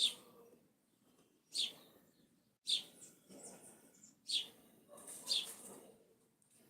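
A bird chirping: five short, high chirps about a second apart, over faint background noise.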